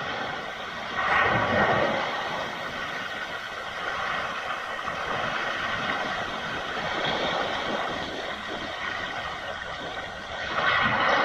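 Sea waves breaking on a rocky shore: a steady wash of surf, with a louder surge about a second in and another near the end.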